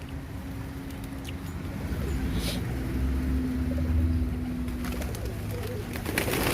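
A flock of birds feeding on scattered corn, with low calls over a steady low rumble and a brief flurry of pecking or flapping clicks near the end.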